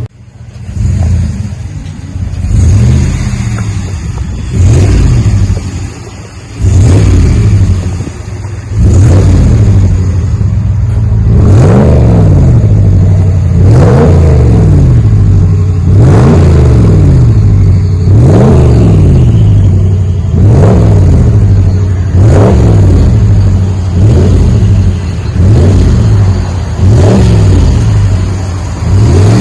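2019 Ram 1500's 5.7-litre Hemi V8 running through a single-chamber V-tube muffler with the stock resonators and 5-inch tips, blipped over and over. A few uneven revs come first, then a steady run of revs rising and falling about every two seconds, with a smooth rumble and no straight-pipe gargle.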